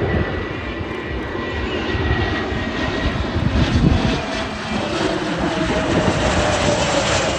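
Airbus A320neo jet engines running loud and steady, with a deep rumble under the jet noise and a whine that falls slightly in pitch in the second half.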